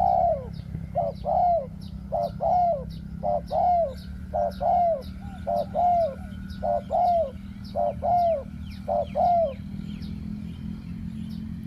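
Spotted dove cooing: groups of short coos, each ending in a longer arched note, repeated about once a second and stopping near the end. Small birds chirp faintly higher up, over a steady low hum.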